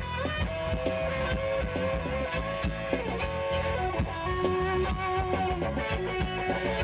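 Live band playing an instrumental passage: a lead electric guitar holding and bending notes over bass and drums.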